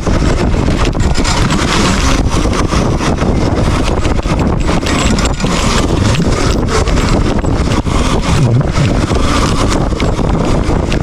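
Loud wind buffeting the microphone during a dirt bike ride: a steady rumbling noise broken by many short knocks and jolts, with no clear engine note.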